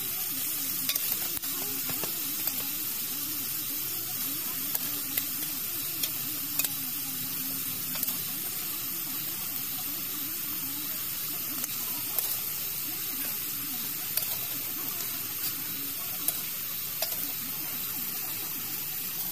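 Chunks of goose meat frying with garlic, onion and ginger in an oiled iron wok: a steady sizzle with scattered sharp pops.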